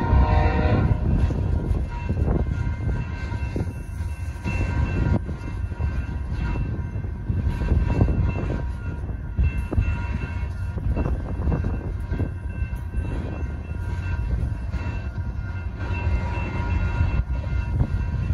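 Freight train cars rolling through a grade crossing: a steady low rumble of steel wheels on rail with repeated clacks at the rail joints, and crossing-signal bells ringing over it. A locomotive horn cuts off about a second in.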